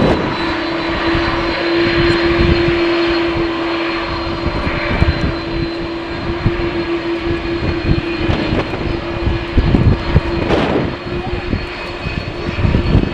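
Airliner engines running with a steady whine, while strong wind buffets the microphone in irregular low gusts.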